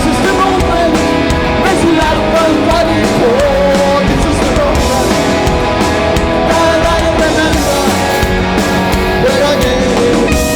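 Live punk rock played loud through a PA: distorted electric guitars, bass and drums under a sung melody.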